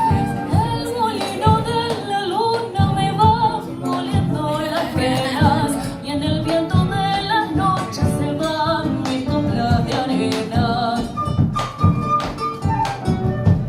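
Latin American–style ensemble music: a melody over plucked strings with a steady percussive beat.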